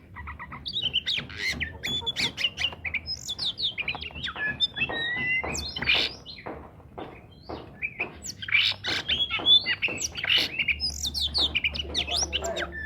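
Oriental magpie-robin (kacer) singing hard, a rapid, unbroken stream of varied whistles, chirps and harsh squawking notes.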